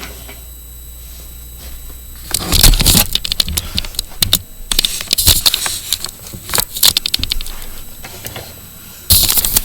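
Rapid, irregular clicking and rattling from a toy train set. It starts about two seconds in, pauses briefly near the middle and grows louder near the end.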